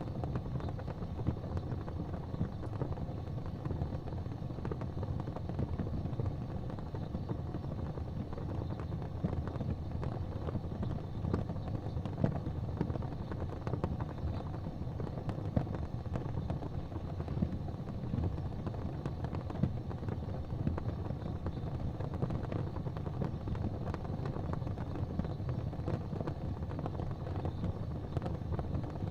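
Wood fire crackling in a fireplace: a steady low rumble of the flames with frequent small, irregular pops and snaps.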